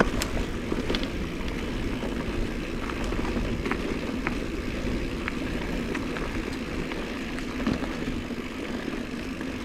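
Giant Trance 2 mountain bike rolling along a dirt trail: a steady rumble from the tyres with scattered light clicks and rattles from the bike.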